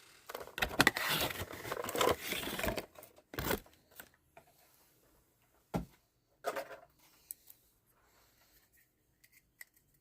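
Toy packaging being handled and torn open: a stretch of rustling, tearing and scraping in the first few seconds, then a few shorter rustles and sharp clicks as pieces are pulled apart.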